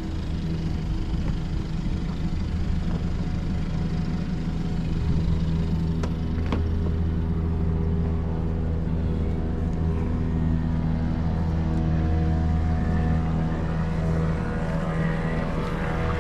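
An engine running steadily with a low, even hum, a little louder from about five seconds in, with a couple of light knocks around six seconds.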